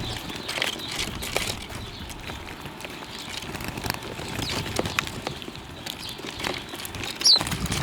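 Small birds at a feeding spot: scattered light taps and rustles, with an occasional short chirp, one clear chirp near the end.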